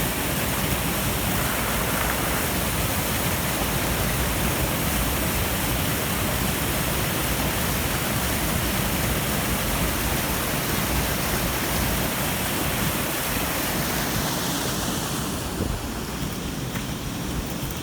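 Steady rushing of a brook swollen and overflowing its banks with meltwater and rain, dropping a little in level near the end.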